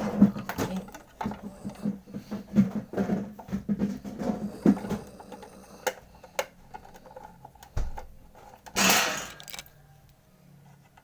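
Rapid clicks and knocks of hands working at a refrigerator's defrost timer and its fittings, over a steady low hum, with a brief rushing hiss about nine seconds in.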